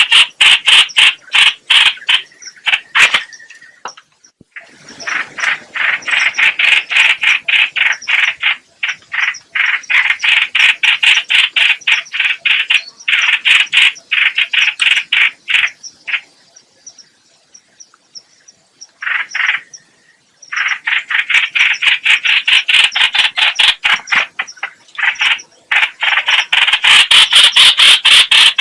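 Trao trảo (hoành hoạch) bird calling, used as a trapping lure call: a fast run of harsh repeated notes, about three to four a second, in long bouts with a pause about four seconds in and a longer break in the middle.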